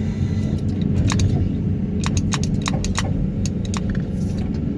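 Excavator diesel engine running steadily, with a scatter of sharp clicks and rattles from about a second in until near the end.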